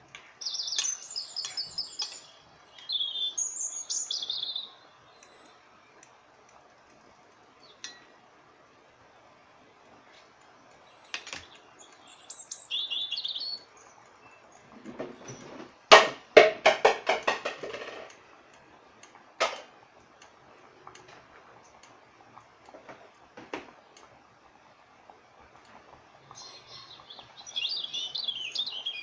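Small birds chirping and twittering in short bursts, four times. About halfway through comes a louder, harsher burst with a sharp knock.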